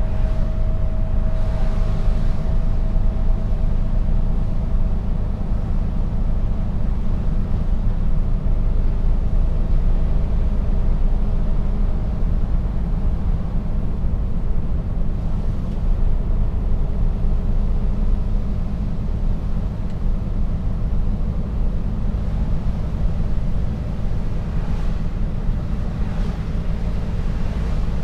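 Mercedes-Benz Actros truck driving, a steady low rumble of diesel engine and road noise heard inside the cab.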